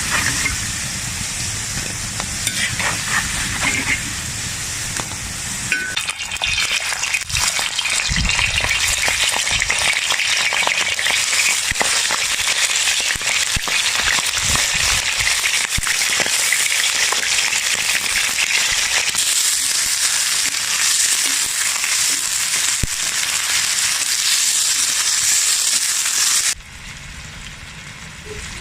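Pieces of offal frying in hot fat in a pan, a dense crackling sizzle with the scrape and clink of stirring. The sizzle grows louder about six seconds in and drops away sharply near the end.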